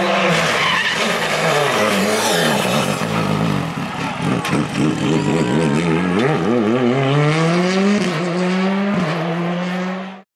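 Rally car engine running hard. The revs drop and fall away about four seconds in, then climb steadily and hold high, with a brief dip near the nine-second mark as it shifts gear. The sound cuts off suddenly near the end.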